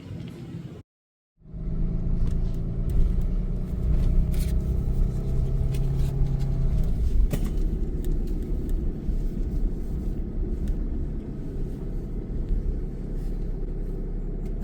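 Truck driving: a steady low engine and road rumble heard from inside the cab, with an engine hum that holds for a few seconds and then fades into the road noise. A short gap of silence about a second in.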